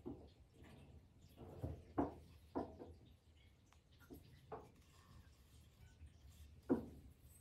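Soft, scattered knocks and rustles of household objects being handled, a few light taps here and there.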